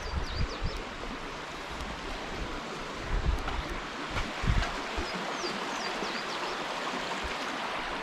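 Mountain Creek flowing steadily under a bridge, an even rushing of running water. A bird chirps briefly near the start and again about five seconds in, and there are a few low thumps.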